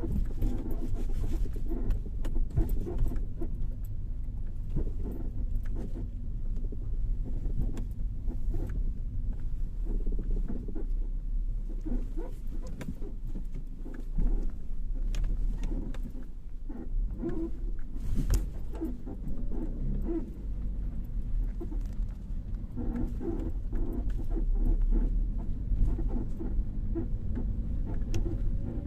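Car suspension creaking: the strut rubbing against the control arm, heard as short irregular creaks and clicks over a steady low rumble.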